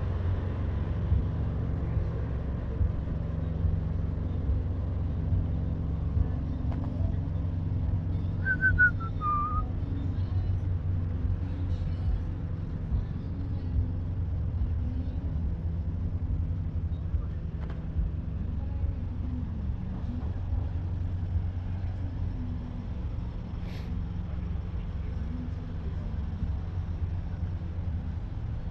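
Steady low rumble of an idling engine, with a brief falling whistle-like chirp about nine seconds in.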